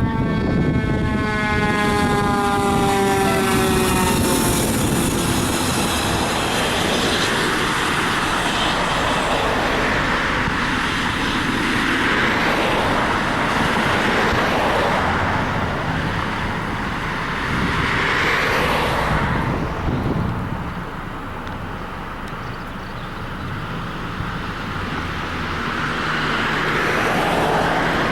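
Emergency vehicles responding: a siren slides down in pitch over the first few seconds, then heavy engine and road noise swells and fades as several vehicles go by.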